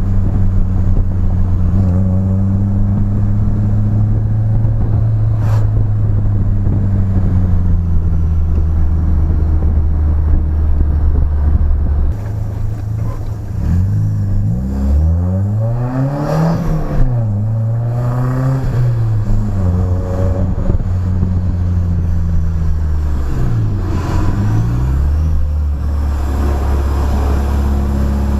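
BMW E30 engine and aftermarket exhaust running under way: a steady drone, then the revs rise and fall a few times through the middle before settling into a steady drone again near the end.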